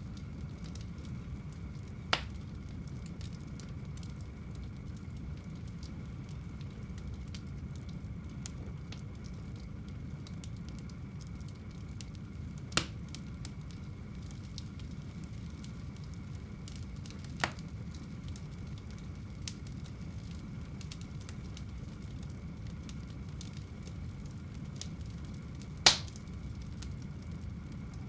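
Fire burning in a home fireplace: a steady low rumble under faint constant crackling, with four sharp pops spread through, the loudest near the end.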